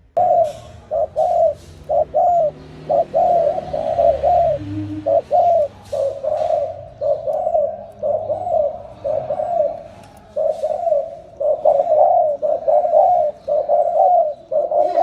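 Spotted dove cooing repeatedly in quick runs of short notes with brief pauses between runs, the rapid 'gù' coo used as a lure call to provoke wild males.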